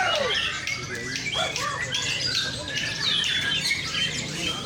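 Several white-rumped shamas (murai batu) singing at once: a dense tangle of overlapping whistled phrases and sliding notes, with no pause.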